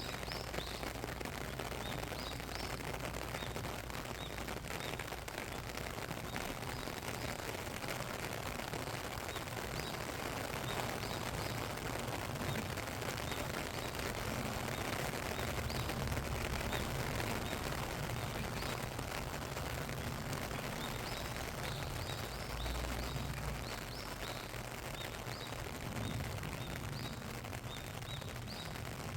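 Steady rain falling, an even hiss of drops, with short bird chirps now and then, clustered near the start and again in the last third.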